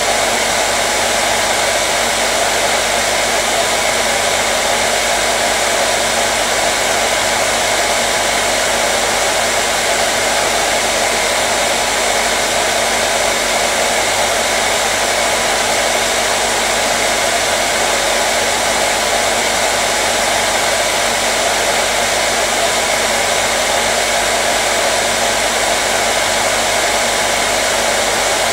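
Hair dryer running steadily: a continuous loud whoosh of blown air and motor hum that doesn't change, played as white noise to calm a colicky baby.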